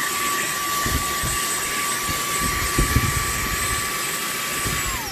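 Handheld vacuum cleaner running with a steady rush of air and a high motor whine, with a few low knocks in the middle. Right at the end it is switched off and the whine falls away as the motor spins down.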